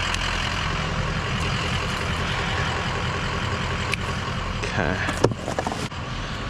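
A vehicle engine running steadily at idle, with a few faint clicks over it and a brief voice sound about five seconds in.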